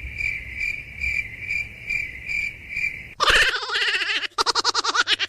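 A steady, high insect-like chirring that pulses about twice a second. A little over three seconds in it gives way to a louder animal call that wavers rapidly.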